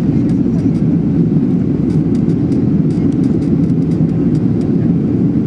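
Steady, loud cabin noise of a Boeing 737-800 in flight: its CFM56 jet engines and the airflow over the fuselage, heard from a window seat inside the cabin.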